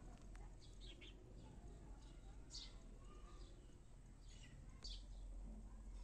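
Faint, short bird chirps at intervals over a low, steady background hum.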